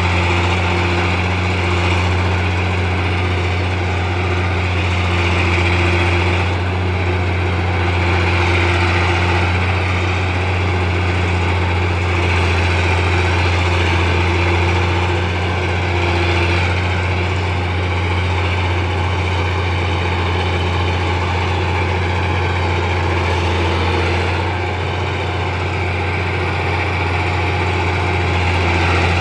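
Komatsu D60-8 bulldozer's diesel engine running steadily, with a low, even hum that dips and rises slightly now and then.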